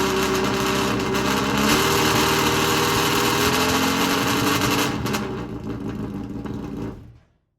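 Four-cylinder engine of a handmade Tyrrell F1 replica running through its new 4-into-2-into-1 exhaust, rising in pitch a couple of times, then stopping about seven seconds in.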